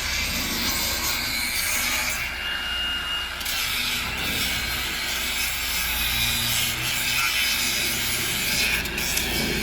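Grinder working over wooden wall framing to grind it flush, a steady continuous grinding noise, with a brief thin high whine about two seconds in.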